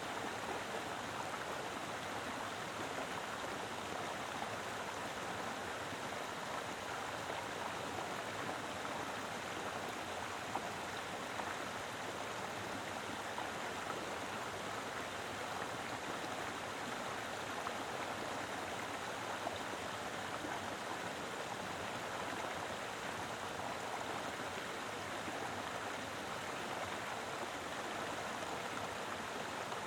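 Mountain river flowing over rocks: a full, steady rush of running water.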